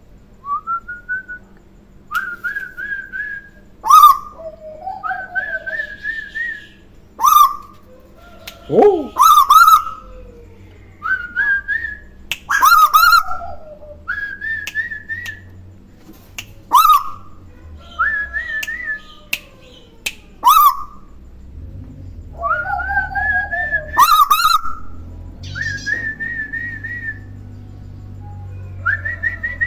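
A Tuwu bird giving loud whistled calls. Short, sharp falling notes alternate with wavering rising whistles, in a back-and-forth exchange repeated about a dozen times.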